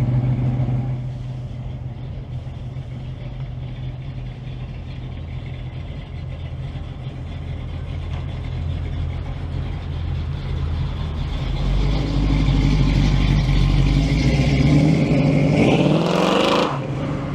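Car engines running as cars drive past, deep and steady at first. Near the end one engine revs up, its note rising steeply, before the sound drops off abruptly.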